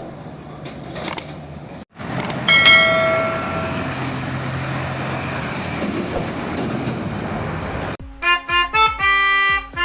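A vehicle horn sounds once for a little over a second, over steady road noise. About eight seconds in, a melody of short notes begins.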